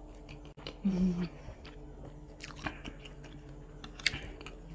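Close-miked chewing of a mouthful of mie ayam's shredded chicken and noodles, with soft wet mouth clicks, and a short hum from the eater's voice about a second in.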